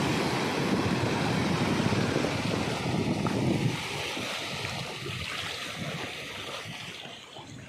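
Sea waves washing and surging along the shore, mixed with wind; loudest for the first few seconds, then easing off.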